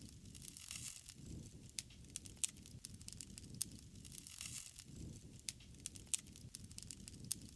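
Wood fire crackling, with many irregular sharp pops and snaps over a low rumble that swells now and then.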